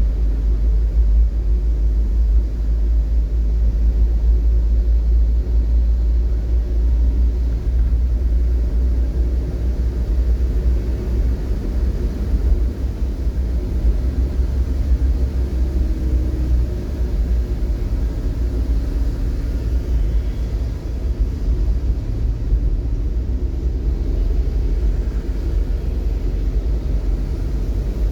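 Steady low rumble of a vehicle on the move, with a faint engine hum.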